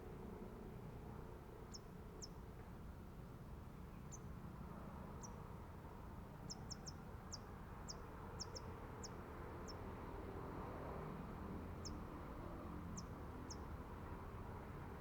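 A small bird giving short, thin, high-pitched call notes, about sixteen of them at irregular intervals, most bunched near the middle, over a steady low background noise.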